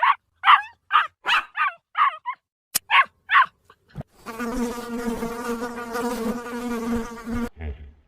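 A quick run of about eight short, high animal calls, then a flying insect's steady buzz that starts about four seconds in and stops suddenly near the end.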